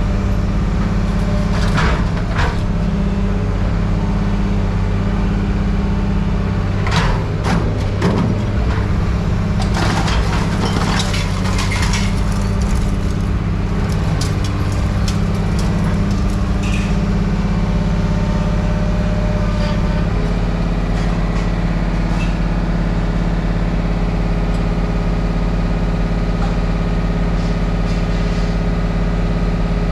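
An engine running steadily, with bursts of clattering metal scrap being moved or dropped about two, seven and ten to twelve seconds in.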